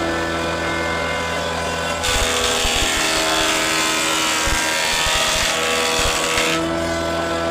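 Electric woodworking power tool running with a steady motor hum. From about two seconds in until near the end it cuts into the wood, adding a loud hiss with a few low knocks, then it runs free again.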